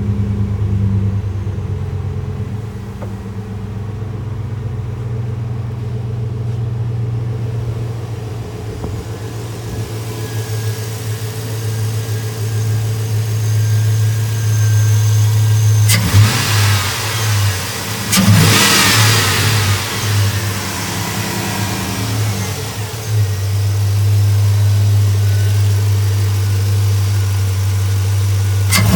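2005 Chevrolet Silverado's 4.8 L Vortec V8 idling steadily in the truck. Roughly halfway through it is revved briefly, then revved again a couple of seconds later, before settling back to a steady idle.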